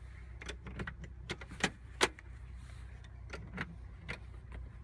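Scattered light clicks and knocks, about a dozen at uneven intervals, over a low steady hum.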